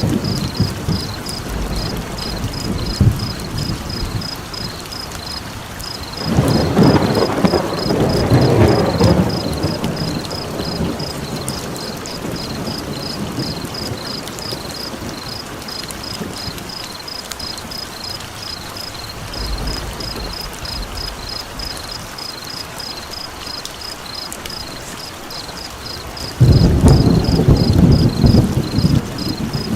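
Steady rain with two rolls of thunder, one about six seconds in and a louder one breaking in suddenly near the end. Under it runs a high pulsing call, repeating evenly about three times a second.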